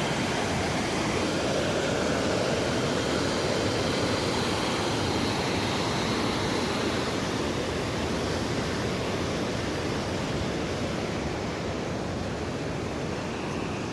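Steady rush of a mountain stream or river in full flow, a constant water noise that eases off slightly toward the end.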